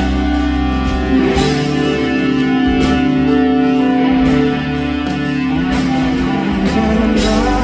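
Live band music: an instrumental passage of sustained chords with guitar, without vocals.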